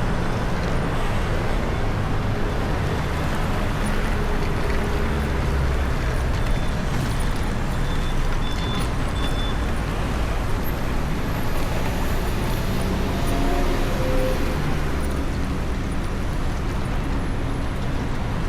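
Steady road traffic noise on a city street, a continuous rumble of vehicles.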